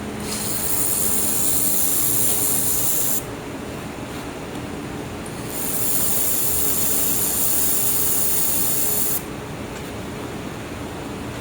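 Handheld air-cooled laser welder tacking aluminum: two steady high hisses of about three and four seconds, each starting and cutting off sharply, over the steady hum of the machine.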